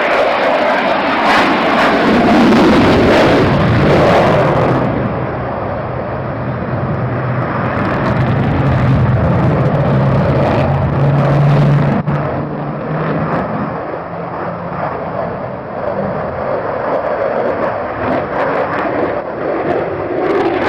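Aircraft flying in a display, with continuous loud engine noise that swells and eases as it passes; a steady low hum sounds from about a third of the way in to past the middle.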